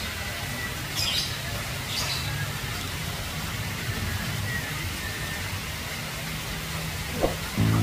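Outdoor ambience: a steady low rumble with a few short bird chirps, about one a second, in the first couple of seconds. Music starts right at the end.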